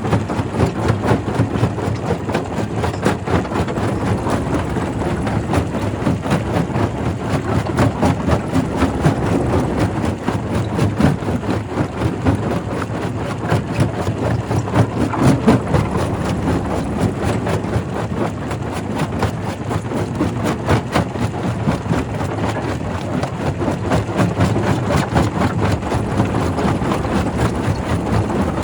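Primary rock crusher running, with a steady mechanical drone and a dense, irregular knocking of stone being broken.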